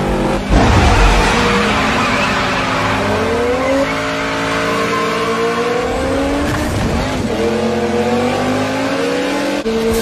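Film sound of two drag-racing cars, a Dodge Charger muscle car and a Toyota Supra, launching hard and accelerating, with a loud burst at the launch about half a second in. Their engines' pitch climbs and drops back at gear changes about four and seven seconds in.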